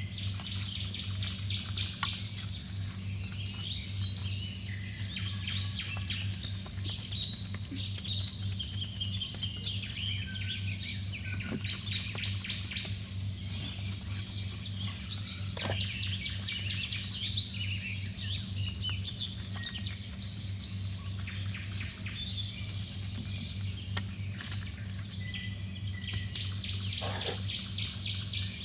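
Small birds chirping and singing continuously, with many short rapid calls, over a steady low hum.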